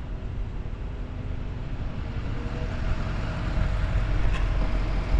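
City street traffic with a low rumble. A vehicle's faint steady whine joins about halfway, and the sound grows slowly louder toward the end.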